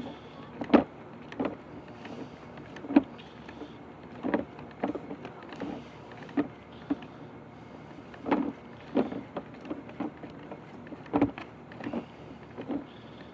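Sewer inspection camera being pushed along a drain line: irregular knocks and clunks as the camera head and push rod bump through the pipe, over a steady low hum.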